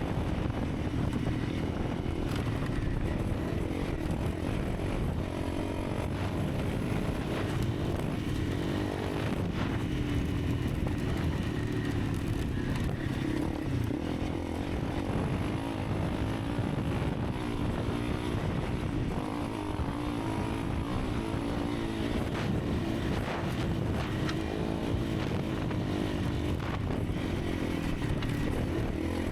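Honda CRF300 Rally's single-cylinder engine running steadily while riding, its pitch wavering slightly with the throttle, over a constant rush of noise.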